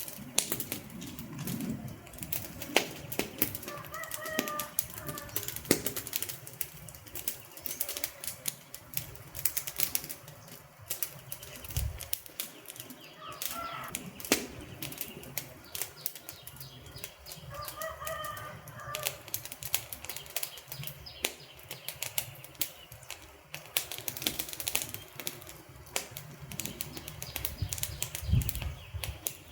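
Wood fire crackling, with dense, irregular pops and snaps over a low hiss. A faint pitched sound is heard three times, about 4, 13 and 18 seconds in.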